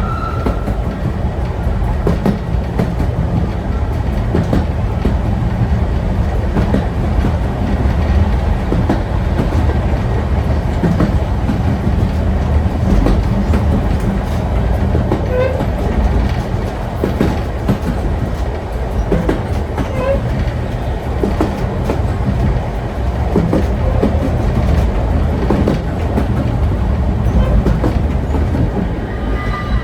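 Vintage carriage of the Hoorn–Medemblik steam train running along the track: a steady low rumble with the light clickety-clack of wheels over rail joints. A brief high squeal sounds at the start and again near the end.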